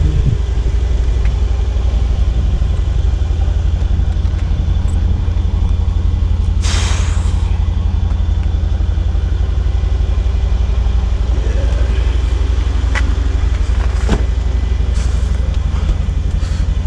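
Mercedes-AMG C63 S's 4.0-litre twin-turbo V8 idling steadily with a deep, even rumble. A brief hiss comes about seven seconds in, and a few sharp clicks in the second half.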